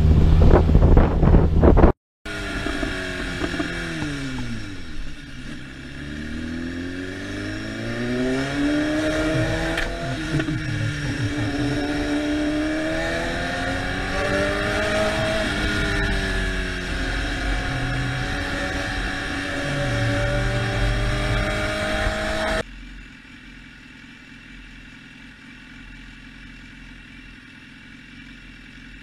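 Motorcycle engine running on the move, its pitch rising and falling as it speeds up and slows down. Near the start a loud noisy stretch cuts off abruptly, and a little before the end the sound drops suddenly to a quieter steady engine hum.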